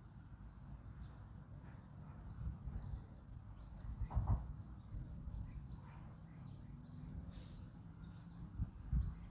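Many small birds chirping and twittering in quick, overlapping short calls, over a steady low wind rumble. About four seconds in comes a louder, lower call or thump, and a brief hiss a little after seven seconds.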